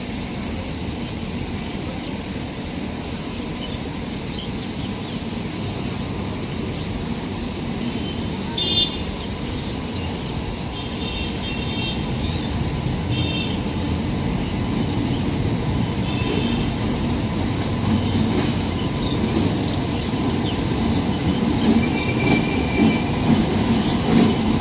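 Train running on the rails, a steady low rumble that slowly grows louder, with sharper knocks near the end and a few short high-pitched tones in the middle.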